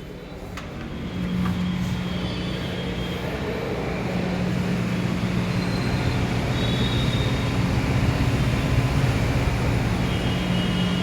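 A vehicle running, a steady low hum under a rushing noise that grows louder about a second in and then holds.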